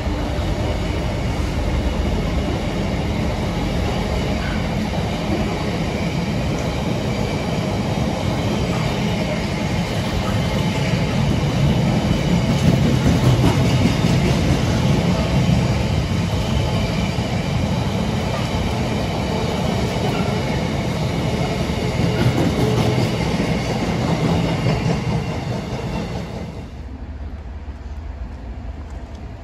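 A train running past on the rails: a steady rumble of wheels on track with faint high wheel squeal, loudest about halfway through. Near the end it gives way abruptly to quieter background noise.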